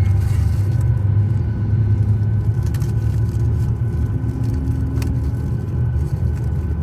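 Steady low cabin hum inside a parked Boeing 737-900ER before engine start, the airflow of the cabin air conditioning, with a couple of faint clicks.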